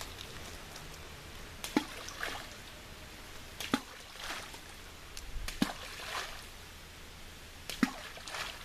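Water drops plopping into still water: four sharp, pitched plops about two seconds apart, each followed by a softer splash, over a faint steady outdoor background.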